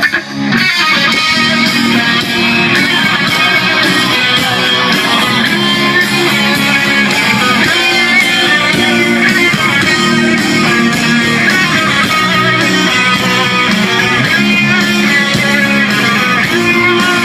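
Rock band playing live, an instrumental intro with guitars to the fore, starting just after a brief break.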